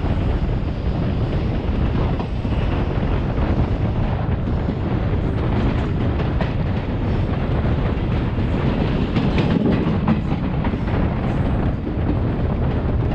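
Train running at speed: a steady rumble of wheels on rails with wind noise, and a few clicks of wheels over rail joints in the middle.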